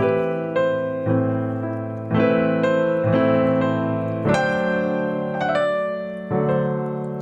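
Gentle piano music: slow chords and single notes struck about every half second to second, each ringing and fading, with a stronger chord about four seconds in.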